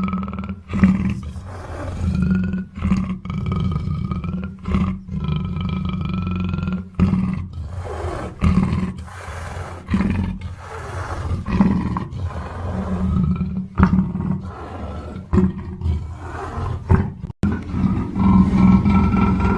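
Black panther giving a run of roars and growls, one call after another with short breaks between them.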